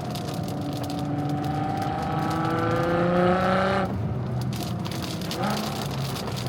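Nissan GT-R R35's twin-turbo V6 accelerating, its note rising steadily for about four seconds before cutting off abruptly. About a second and a half later there is a short rising blip of revs.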